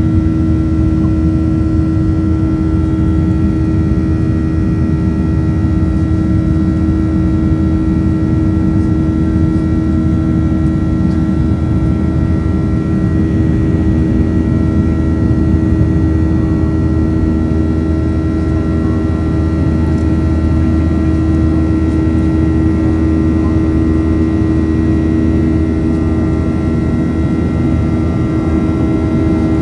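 Boeing 737-800's CFM56 turbofan engines heard through the cabin, a loud, steady drone with a low rumble and a constant hum that holds its pitch.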